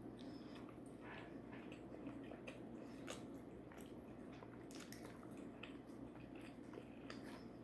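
Faint chewing of food, with scattered soft wet mouth clicks and smacks.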